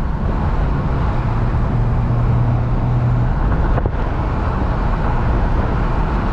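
BMW turbocharged straight-six engine and aftermarket intake at a steady light cruise, heard from inside the car, over road noise. A steady low hum fades out about three seconds in.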